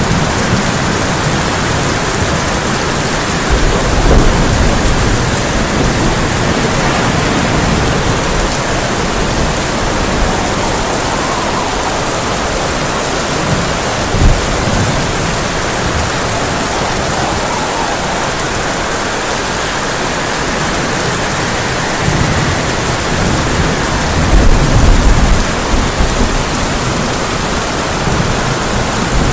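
Heavy rain falling steadily on a tin roof, with thunder rumbling low; the rumbles swell about four seconds in and again near the end, and a short sharp crack stands out about halfway.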